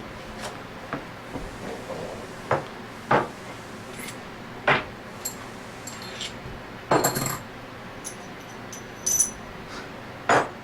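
Metal compressor parts and tools clinking and knocking on a workbench while needle bearings are fitted back into a scroll compressor. Scattered sharp clicks run throughout, with a few louder knocks and brief high metallic ringing about two thirds of the way in.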